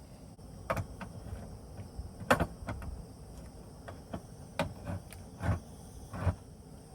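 About eight irregular knocks and clicks of objects being handled, with the loudest about two and a half seconds in and a couple of duller thuds near the end.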